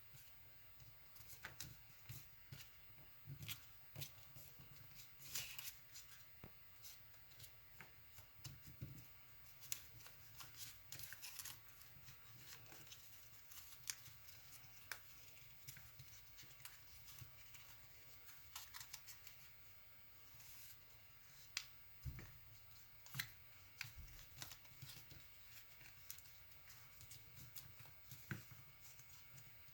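Sheet of paper being folded and creased by hand: faint, scattered rustles and short crisp crackles of the paper.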